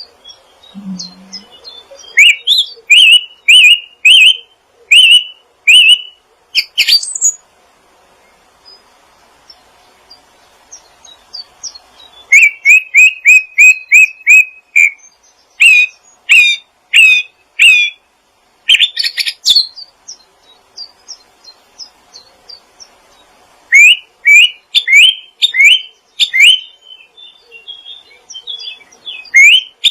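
A songbird calling in runs of short, sharp, upward-sweeping chirps, with brief pauses between runs; one run in the middle comes fast, about five chirps a second.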